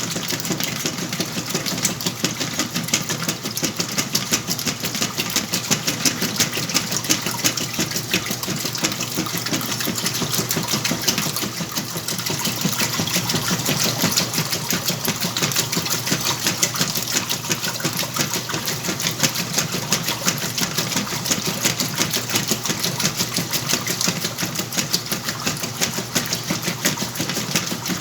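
Whirlpool washing machine running through its cycle with a load of blankets: a steady, fast mechanical whir with a dense rattle.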